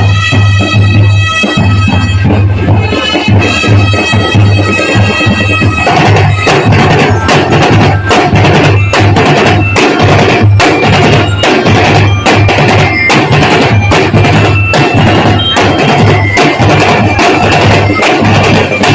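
Drum and bugle corps playing: a held, reedy-sounding chord over a pulsing bass drum, then dense, rapid snare-and-bass drumming with melody notes on top from about six seconds in.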